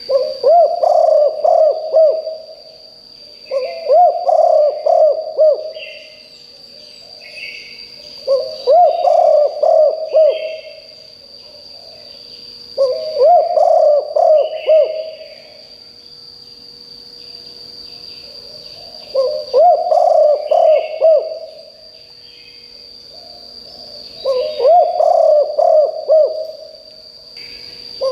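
Spotted dove cooing: six repeated phrases of several low coo notes each, a few seconds apart. A steady high-pitched whine and faint chirps of other birds run underneath.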